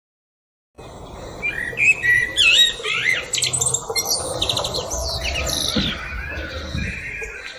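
A sabiá-preta, a Brazilian thrush, singing a fast run of varied whistled phrases over a low background rumble. The sound cuts in abruptly a little under a second in.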